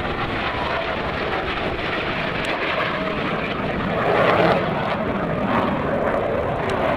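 Airplane engine noise as an aircraft flies past, a steady rushing drone that swells to its loudest about four seconds in.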